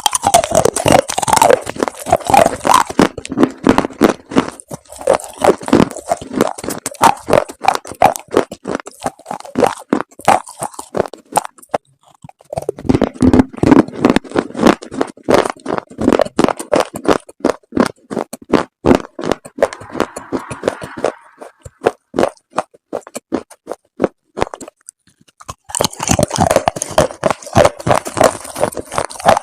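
Dried chalk paste crunching and crumbling, a dense run of crisp cracks in quick succession, with two short lulls, one near the middle and one a few seconds before the end.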